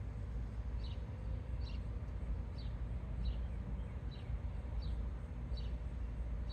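A bird repeats one short, high chirp that falls in pitch, about once a second, over a steady low rumble.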